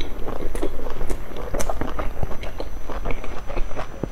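Close-miked chewing and biting of pan-fried flatbread: a steady run of many small, irregular mouth clicks.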